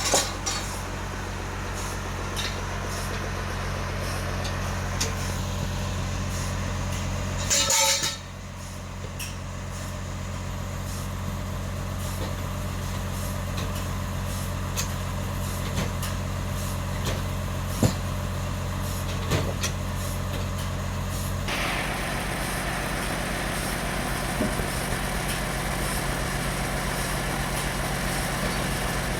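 Sawmill machinery engine running steadily under a constant hum, with scattered knocks. About eight seconds in there is a short hiss, after which the engine dips and recovers. Near three quarters of the way through, the hum shifts and a brighter, noisier sound comes in.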